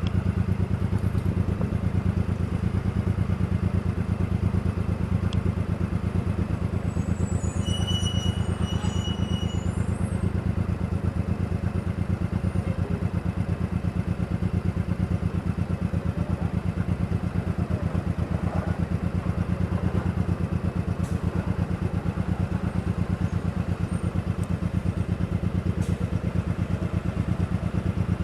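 Motorcycle engine running steadily while riding, a fast even pulse with a strong low hum. About eight seconds in there is a brief high-pitched tone.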